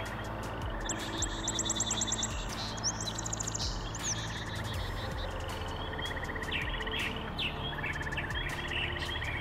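Birds singing at a pond's edge: a quick run of rising whistled notes about a second in, then scattered short trills and chirps, over steady outdoor background noise.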